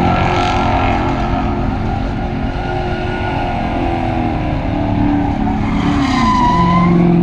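Car engine held at high revs in a burnout, with tyres squealing against the pavement. Near the end the engine note dips, then climbs again.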